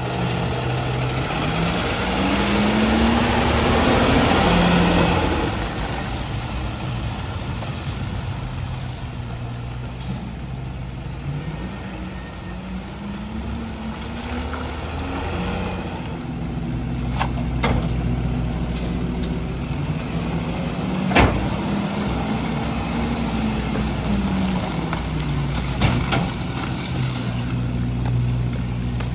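Garbage truck's engine revving up and down, twice climbing in pitch and holding high before settling, as the packer runs. A hissing rush in the first few seconds and a single sharp bang about two-thirds of the way through.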